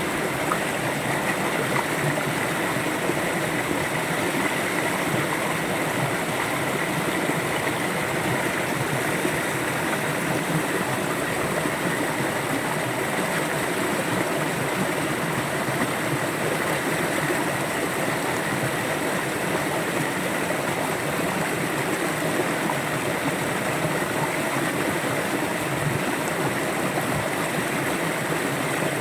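River water flowing steadily, with no breaks or changes.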